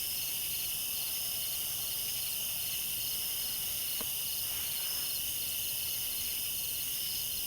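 Crickets and other night insects chirping and trilling steadily in several high-pitched layers, one of them pulsing in a fast, even rhythm. A faint single tick sounds about halfway through.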